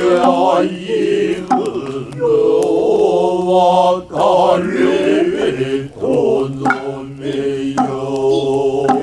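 Men's voices chanting noh utai in the Kanze style: long, held, wavering sung lines, broken by short pauses every couple of seconds.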